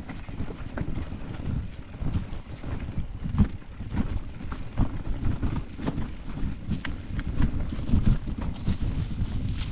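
Mountain bike riding over a rocky trail: frequent sharp knocks and rattles from the wheels and bike hitting stones, under rough wind buffeting on the microphone.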